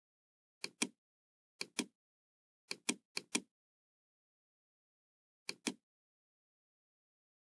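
Computer mouse clicking: five quick double clicks, irregularly spaced, with dead silence between them.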